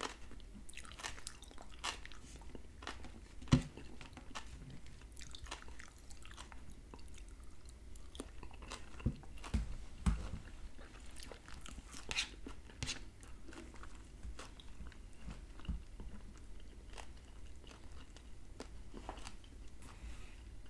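A man chewing baked salmon and onions close to the microphone: soft mouth clicks and chewing sounds, with a few louder knocks, the loudest about three and a half seconds in.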